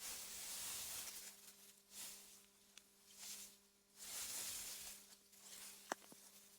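AI-generated wind through meadow grass: a soft, airy hiss that swells and fades in gusts, over a faint steady low hum. A single sharp click sounds about six seconds in.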